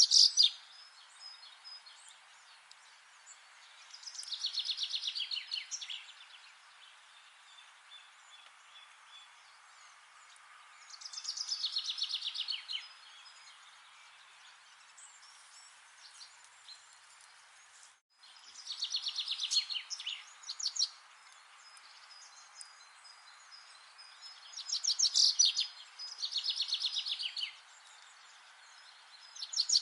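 A songbird singing short phrases of rapid trilled notes, repeated every few seconds over a steady hiss.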